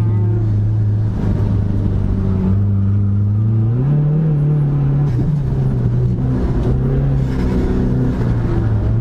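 Dodge Neon SRT-4's turbocharged 2.4-litre four-cylinder engine running under way, the revs holding steady, climbing briefly about four seconds in, then easing back and wavering.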